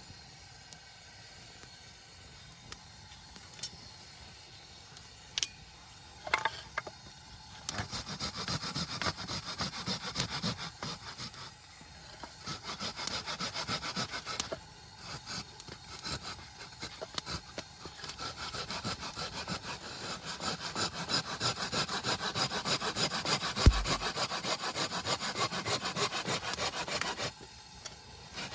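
A hand saw cutting wood in quick back-and-forth strokes. It starts after a few seconds of faint clicks and runs in several bursts with short pauses.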